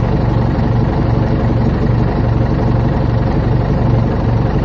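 Ford 755 backhoe's engine running at a steady speed.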